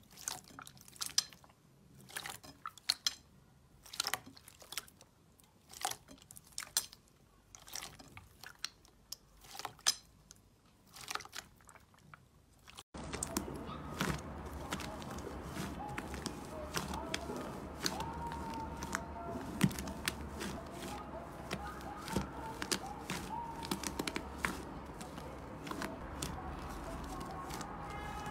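Crunchy slime being squeezed and pressed by hand, a run of sharp, irregular crackles and clicks. About halfway through the sound cuts to another slime clip: the crackling goes on over a steady low hum and room noise.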